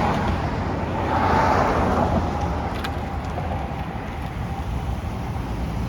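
Steady low vehicle rumble with a hissy haze over it, swelling briefly about a second in and then easing off.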